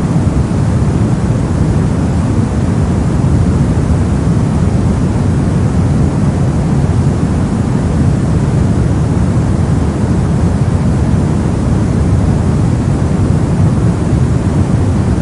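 Steady soft white noise for sleep or focus: a constant, even hiss weighted to the low end, deep rather than bright, with no changes.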